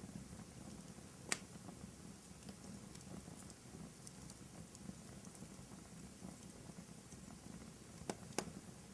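Wood fire burning in a fireplace: a faint, steady crackle with occasional sharp pops, one about a second in and two close together near the end.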